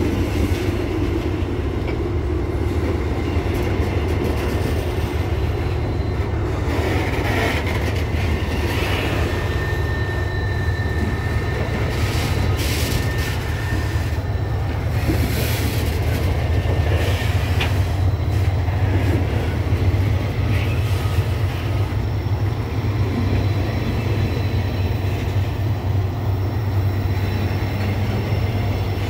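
Loaded covered hopper wagons of a freight train rolling slowly past on an uphill grade: a steady low rumble of steel wheels on rail. About a third of the way in there is a brief high wheel squeal, followed by a few sharp clanks.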